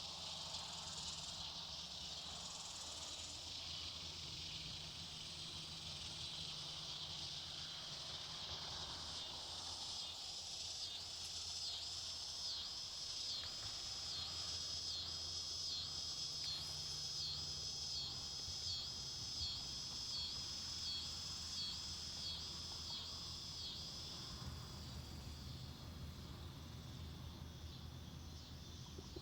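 Insects chirring steadily in the woods, with a high pulsing insect call joining about a third of the way in, at roughly three pulses every two seconds, and fading out near the end.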